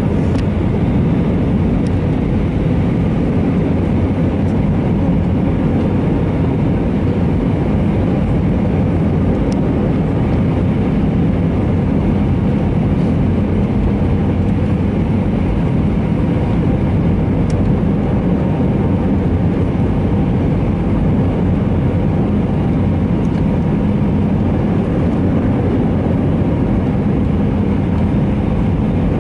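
Steady engine and airflow noise of an Airbus A319 in flight, heard from inside the passenger cabin during the approach, a constant low rumble with a faint hum.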